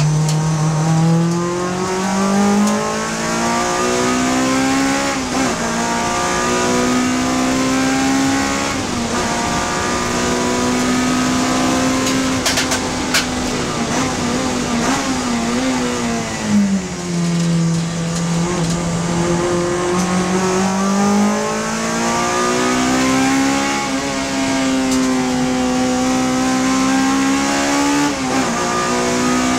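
Honda Civic FD2 race car's engine under hard load on a circuit. The pitch climbs over the first few seconds and holds high, drops sharply a little past halfway as the throttle comes off, then climbs again. There are a few brief clicks about halfway through.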